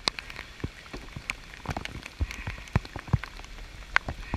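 Steady rain falling on the river, with irregular sharp taps of drops landing close by.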